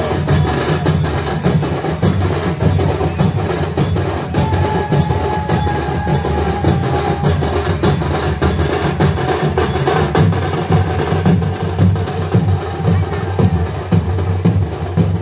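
Loud percussion music: deep drumming under a steady, fast beat of sharp clicking strikes, about three a second, with a faint held note for a few seconds near the middle.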